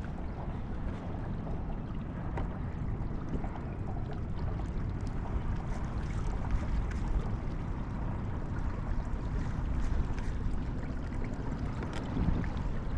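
Water lapping and sloshing against a kayak's hull, with wind rumbling on the microphone and a few faint light clicks.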